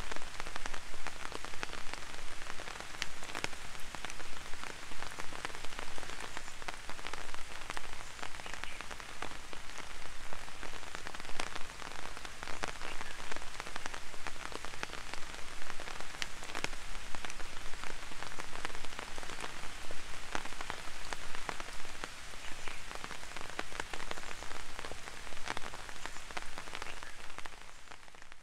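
Light rain falling steadily: an even hiss of rain dotted with many separate drop taps, easing off slightly near the end.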